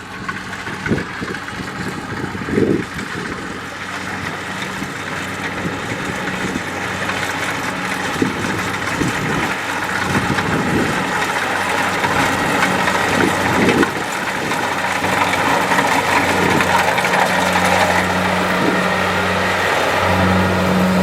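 Kubota DC-70 Plus rice combine harvester running, its diesel engine and threshing machinery giving a steady, dense hum that grows gradually louder.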